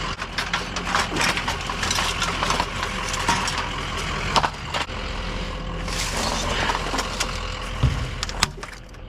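Rummaging through a curbside scrap pile: repeated knocks and clatter of junk being handled and moved, over a steady idling engine.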